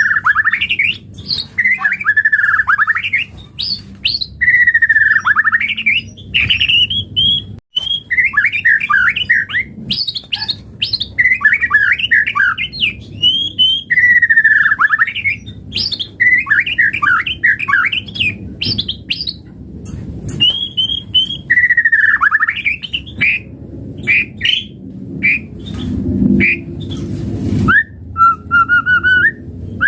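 White-rumped shama (murai batu) singing a long run of varied, rapid phrases: rich whistles, rising and falling notes and trills. There is a sudden brief break just before 8 seconds in.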